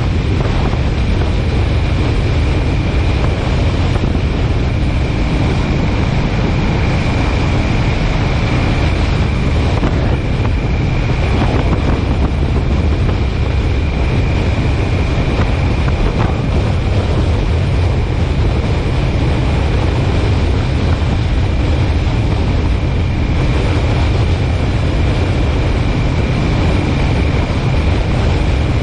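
Steady low road and engine rumble of a car driving, with a faint constant whine above it.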